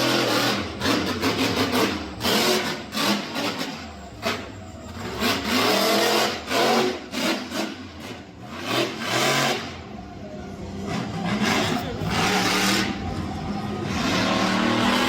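Monster truck engine revving hard, its pitch climbing and falling again and again as the throttle is worked, with sharp loud spikes over it.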